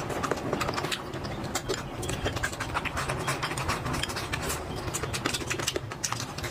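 Close-miked chewing and lip-smacking of soft food: a dense run of small wet mouth clicks over a steady low hum.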